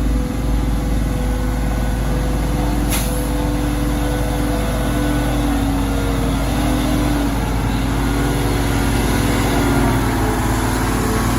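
Heavy diesel truck engine running steadily, its pitch wavering slightly in the second half. A single sharp click about three seconds in.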